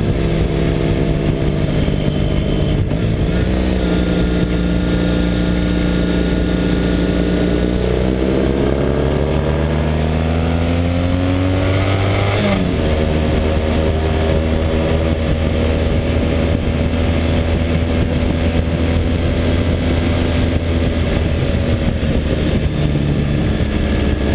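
Triumph Thruxton's air-cooled parallel-twin engine running under way, with wind rush. About halfway through, the engine note rises as the bike accelerates, then drops sharply at a gear change and holds steady again.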